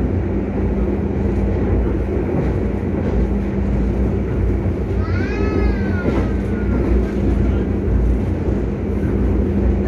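Running noise heard inside a moving passenger train: a steady low rumble with a constant hum. About five seconds in, a short high call rises and falls in pitch once.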